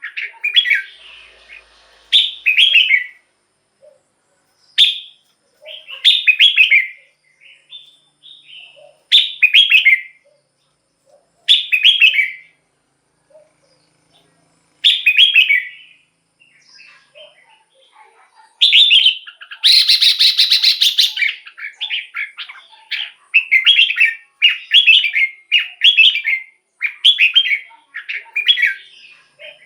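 Red-whiskered bulbul singing short, clear phrases of a few quick notes, with gaps of a second or two between them. About two-thirds of the way through comes a harsher, buzzy burst lasting a couple of seconds, followed by a faster run of phrases.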